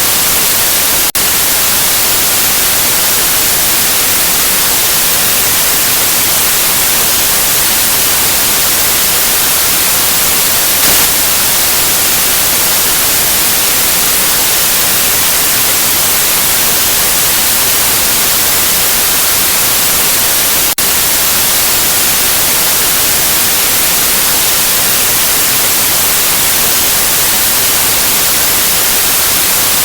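Steady white noise: an even, loud hiss, brightest in the high range.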